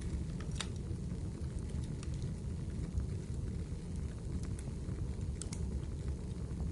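Wood fire in a fireplace crackling: a steady low rumble of burning, with scattered sharp pops and snaps from the logs.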